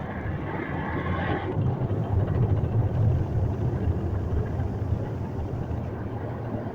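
Automatic car wash machinery running around the car: a loud low rumble that swells about two seconds in and eases off toward the end, with a hissing spray in the first second or so.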